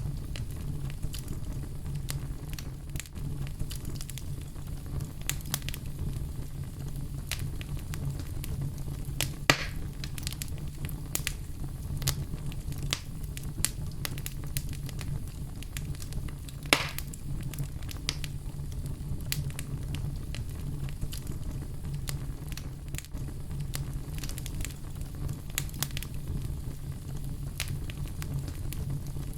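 Wood fire burning in a fireplace: a steady low rumble of the flames with constant small crackles and two louder pops, about a third and just over halfway through.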